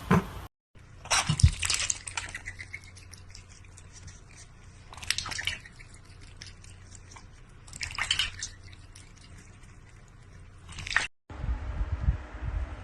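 Water sounds in four short bursts, about a second, five seconds, eight seconds and eleven seconds in.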